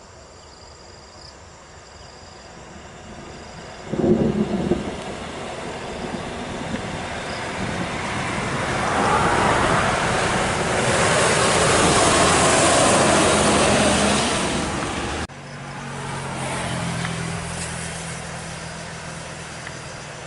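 Heavy road vehicle passing close by on a hill road: its engine and tyre noise swell to a peak and then drop, with a short loud thump about four seconds in. After an abrupt cut, another vehicle's engine runs with a low, steady drone.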